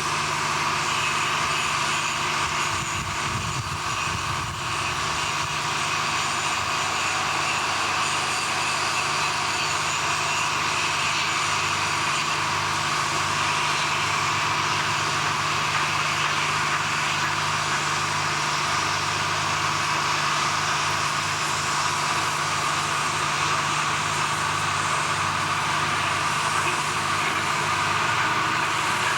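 Steady, unbroken machinery drone from heavy equipment on a steel-mill construction site, with a constant low hum beneath it.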